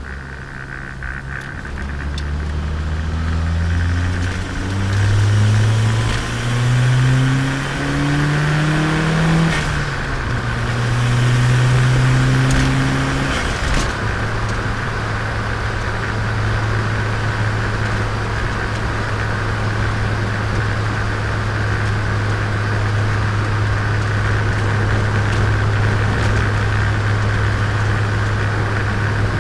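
Turbocharged Nissan Micra engine accelerating through the gears: the engine note climbs and drops back several times as it shifts up, then settles into a steady cruise about halfway through.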